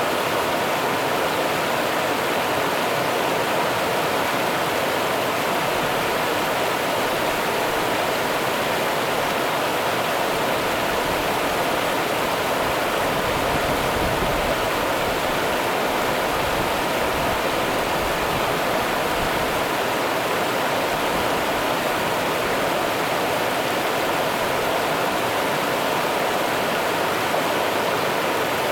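Rio Grande river water rushing steadily, an even, unbroken hiss of flowing water.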